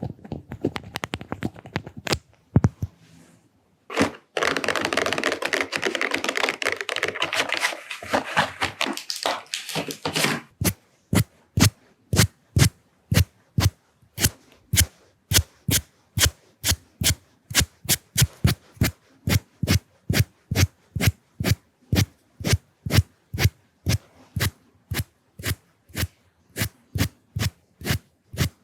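Close, dense scratching of a makeup brush rubbed on a camera lens for several seconds, then crisp, evenly spaced taps of coloured pencils against the lens, about two a second.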